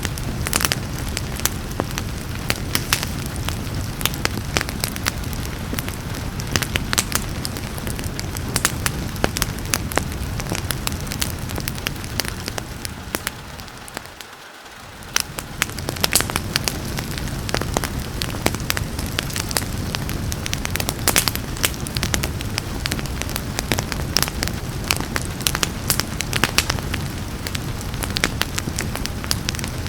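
Wood fire crackling with many sharp pops over a steady hiss of rain. About halfway through, the sound briefly fades down and comes back up.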